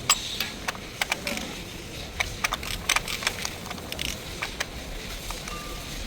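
Irregular sharp clicks and light metallic taps, a dozen or so at uneven intervals over a steady low hum: tools and parts being handled while working on a car engine's oil filter.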